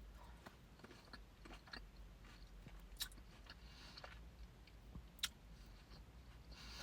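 Faint close-up chewing of a red seedless grape: soft wet mouth sounds, with two sharp clicks about three and five seconds in.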